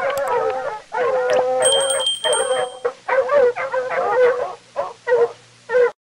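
An animal's fast run of high, wavering whining and howling cries, several overlapping, which cut off abruptly near the end.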